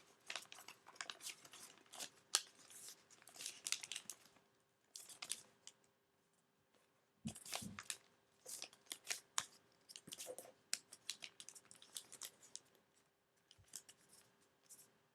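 A sheet of origami paper being folded, pleated and creased by hand: crisp crinkles, rustles and scraping clicks in spells, with short quiet pauses between them.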